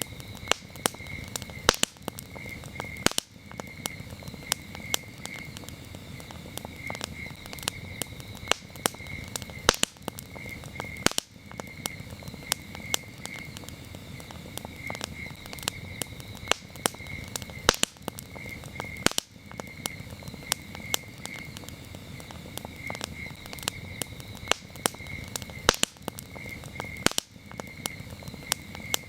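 Campfire burning, with sharp crackles and pops several times a second over a low rush of flame. Crickets chirp steadily behind it in an even, pulsing high trill.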